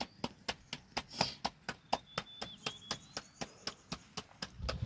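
A rapid, even series of sharp knocks, about four to five a second, that stops near the end. A faint high whistle, like a bird, comes in the middle.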